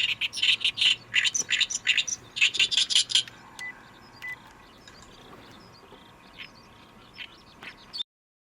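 Oriental reed warbler singing its repeated "gyo-gyo-shi" song: a quick run of loud notes for about three seconds, then fainter scattered calls, until the sound cuts off abruptly about half a second before the end.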